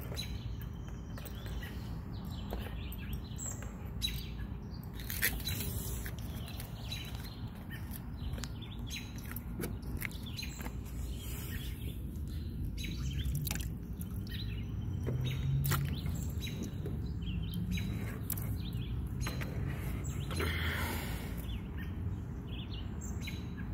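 Birds chirping on and off over a low, steady outdoor rumble, with scattered short, faint ticks and knocks.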